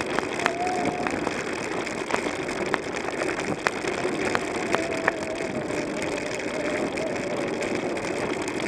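Bicycle riding along a trail: a steady rumble of tyres and wind with scattered sharp clicks and rattles.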